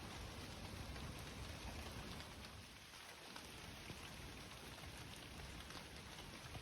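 Rain falling steadily, a faint even hiss with scattered drips.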